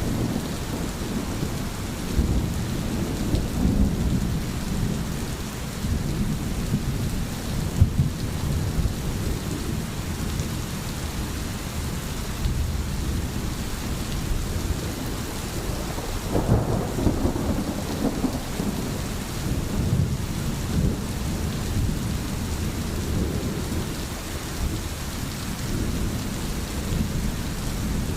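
Steady rain with low rolling thunder rumbling underneath, the rumble swelling about two-thirds of the way through.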